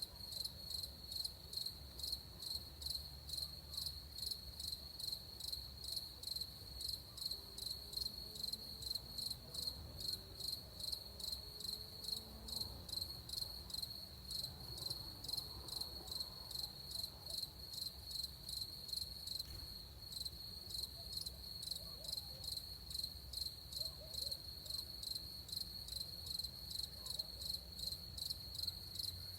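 Crickets chirping in an even, steady pulse of about two to three chirps a second, over a faint low rumble.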